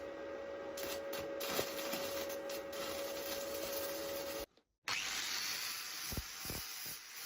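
Workshop tool noise from metal being worked: a steady motor hum with a rubbing, abrasive sound. It cuts out abruptly about four and a half seconds in, then the rubbing resumes with a few low knocks near the end.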